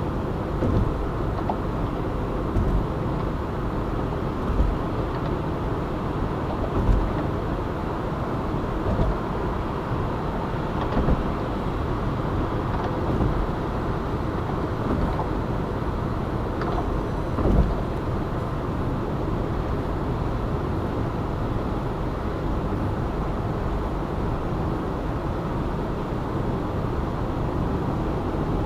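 Car driving at a steady pace: continuous road and tyre noise, with a few short thumps as it passes over bumps.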